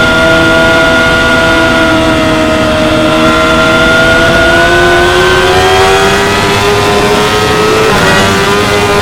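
2016 Yamaha R6's inline-four engine running at high revs, its pitch easing slightly and then climbing steadily under acceleration, with a brief break in the note near the end.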